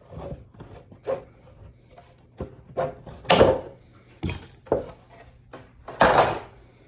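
Thin plastic armor kit parts handled on a table: a run of irregular light clacks, knocks and short rustling scrapes, the loudest about three and six seconds in.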